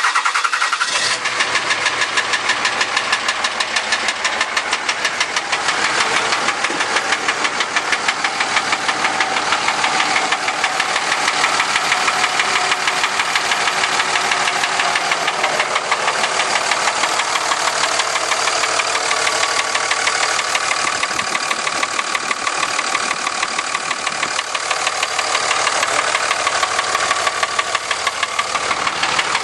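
2003 Dodge 5.9 Cummins turbo-diesel idling with a loud, regular knock that repeats evenly with engine speed. The knock comes from a loose piston in the number six cylinder, with some scoring on the cylinder wall.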